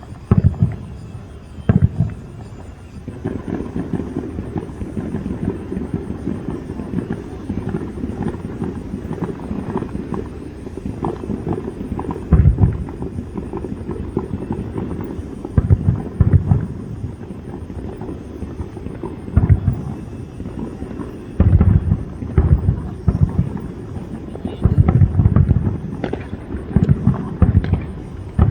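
Aerial fireworks show booming, with scattered deep bangs and a denser run of booms in the last several seconds, over a continuous low din.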